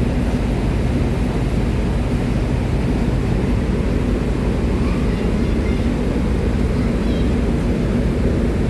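Steady low mechanical rumble with a constant hum, like a motor or machine running without change.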